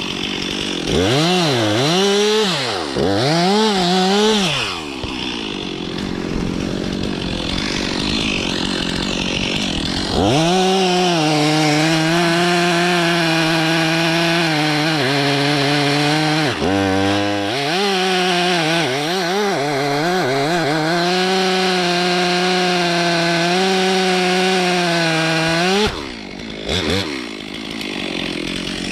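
Stihl MS 362 C two-stroke chainsaw blipped up and down twice, then held at high revs for about fifteen seconds with its pitch sagging briefly now and then, as when the chain is working through wood, before dropping back about three seconds before the end.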